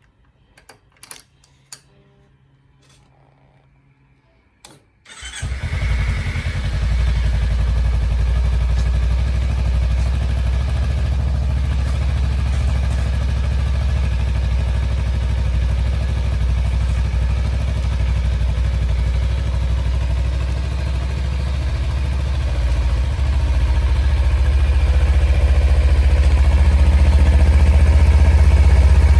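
Kawasaki Ninja 300's parallel-twin engine cold-started after sitting about two weeks: a few clicks, then about five seconds in it catches at once and settles into a steady idle that grows somewhat louder over the last several seconds.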